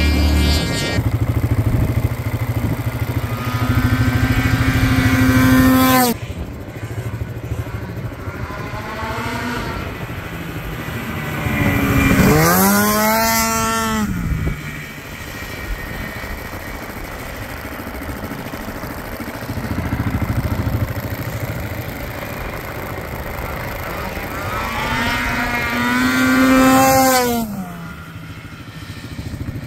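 Ski-Doo MXZ 670 two-stroke engine in a Honda Pilot, run hard in three loud surges, near the start, midway and near the end, its pitch climbing and then dropping away, with quieter running in between.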